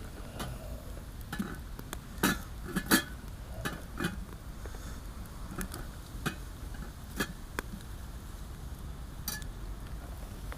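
Metal camp cookware and cutlery being handled: irregular sharp clinks and knocks, the two loudest a couple of seconds in.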